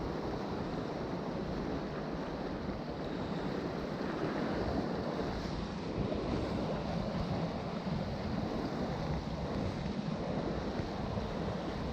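Steady sea surf washing, with wind rumbling on the microphone.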